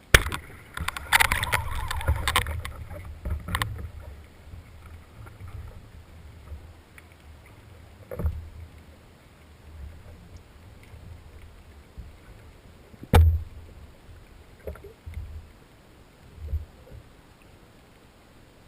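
Handling noise and knocks: a burst of clattering and rustling with a low rumble in the first few seconds, then a few scattered single knocks, the sharpest about thirteen seconds in.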